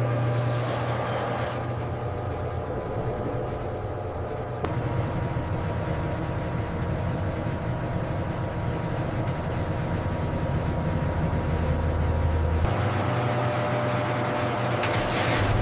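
Steady low hum and drone of industrial processing machinery running, its tone shifting abruptly a few times.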